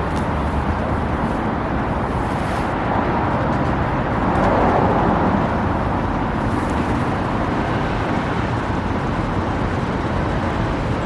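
Steady rumble and road noise of a Tokyo tram running in traffic, swelling a little about halfway through.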